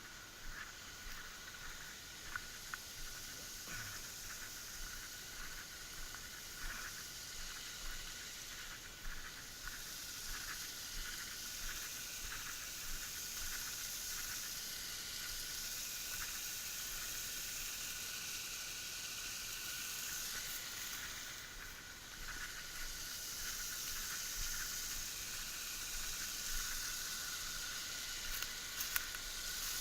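Water of a small forest waterfall falling and splashing, a steady hiss with small scattered splashy ticks.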